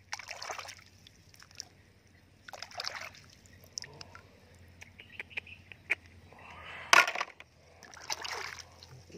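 Shallow water splashing and sloshing in a few short bursts as a hand moves plastic toy animals through it, with small drips and clicks between; the loudest splash comes about seven seconds in.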